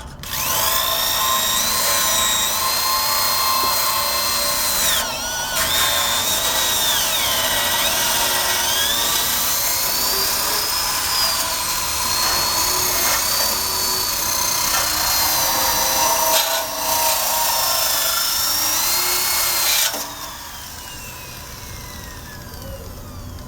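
Corded electric drill with a wire brush scrubbing the metal frame of a 1965 Honda Cub. Its whine rises and falls as the brush bears on the metal and dips briefly twice. About twenty seconds in, the trigger is released and the drill winds down with a falling whine.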